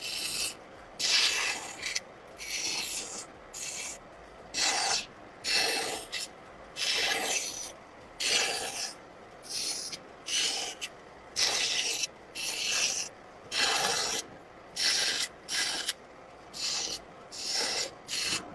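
Wood being worked by hand with an abrasive tool, in about twenty short scraping strokes, roughly one a second, with brief pauses between strokes.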